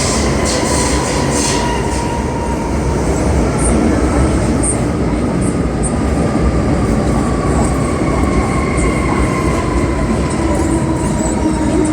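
Cabin running noise of an MTR M-Train, a Metro-Cammell electric multiple unit, travelling between stations: a steady rumble of wheels on rail with traction motor whine tones drifting slowly in pitch, and faint ticks from the track.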